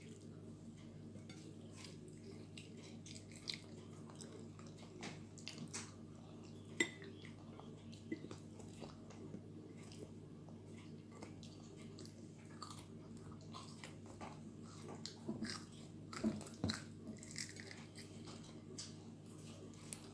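A toddler eating pizza slices: soft chewing and mouth sounds, with scattered light clicks of food and fingers on a plate, over a steady low hum.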